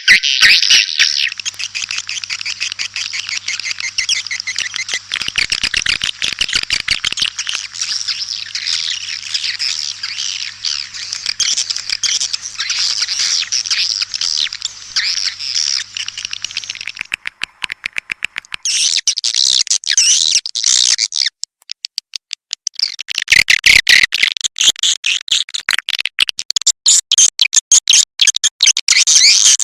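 Recorded twittering of edible-nest swiftlets: a dense, rapid stream of high chirps, the swiftlet call sound played to lure swiftlets into a nest house. It stops briefly twice in the second half, then resumes. A faint steady hum runs under the first half.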